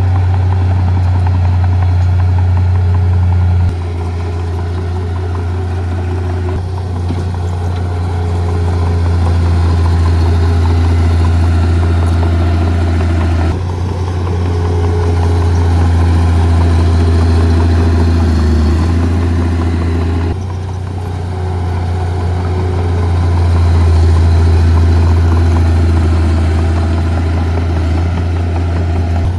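Heavy diesel earth-moving equipment running, a steady low engine drone. The drone shifts abruptly in level and tone a few times.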